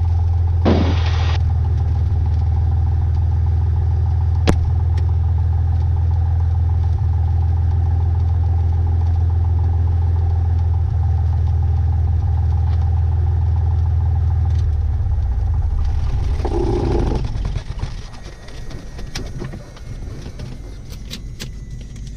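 Cessna 182's piston engine idling steadily, then shut down about three-quarters of the way through: the running breaks up and stops. A few sharp clicks follow.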